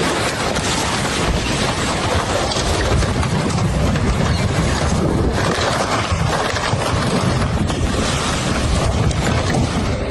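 Loud, steady rush of floodwater, with wind buffeting the microphone in a low, rumbling noise.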